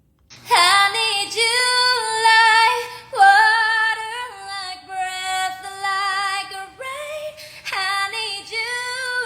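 A woman singing in a high voice, several held phrases with gliding pitch and vibrato and short breaths between them.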